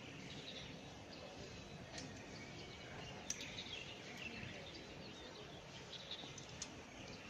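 Faint steady outdoor background noise with scattered bird chirps and a few light clicks.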